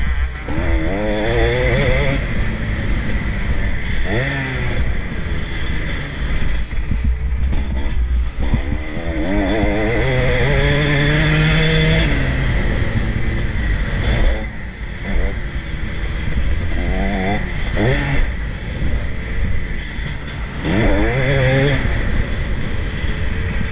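Motocross bikes racing, engines revving hard and shifting, their pitch climbing and dropping repeatedly as riders accelerate, change gear and back off.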